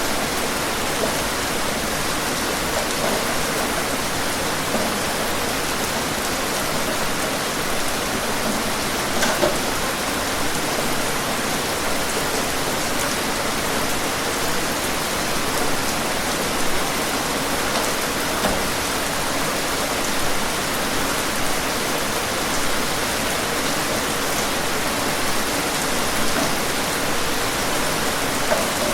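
Steady rain falling, an even hiss of many drops with occasional louder individual drops pattering on a surface.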